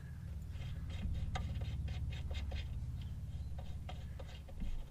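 Small metal clicks and scrapes of caliper bolts and washers being handled and fitted by hand, over a steady low hum, with a louder knock near the end.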